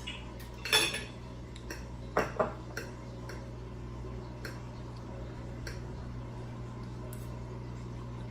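Cutlery clinking against a plate during eating: a few sharp clinks in the first two and a half seconds, the loudest about a second in, then scattered faint ticks, over a steady low hum.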